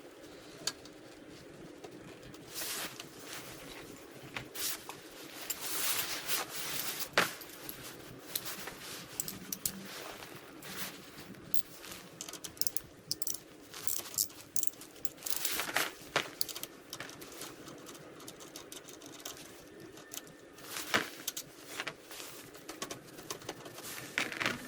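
Metal hand tools and parts clinking, knocking and scraping irregularly while a Super Cub's Chinese-made engine clutch cover is being removed and swapped.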